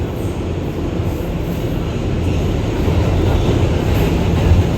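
R211 subway train running between stations, heard from inside the car: a steady low rumble of wheels on rail, growing somewhat louder in the second half.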